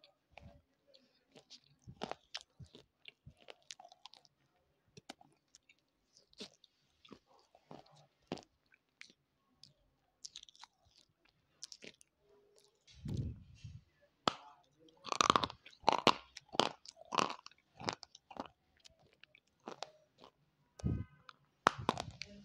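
Close-miked mouth sounds of something hard and crisp being bitten and chewed: sparse sharp crunches and clicks at first, then a low thump and a run of loud, rapid crunches a little past halfway, thinning out again near the end.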